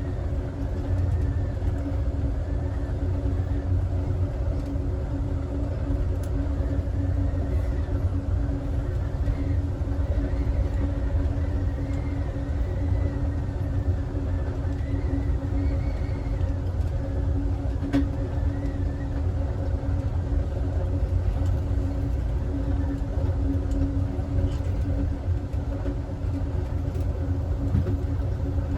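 Amtrak Southwest Chief passenger train running at speed, heard from inside its rear car: a steady low rumble of wheels on rail with a constant hum, and one sharp click about two-thirds of the way through.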